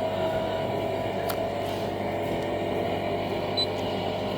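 Steady car engine drone with one sharp click about a second and a half in.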